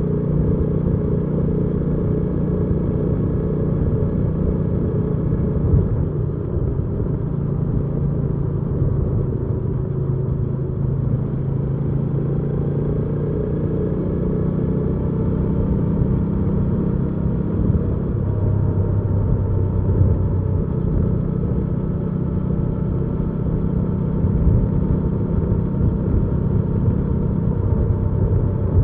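Hyosung GV300S Aquila's V-twin engine running steadily as the motorcycle is ridden at cruising speed, its note shifting a little in pitch with small changes in revs.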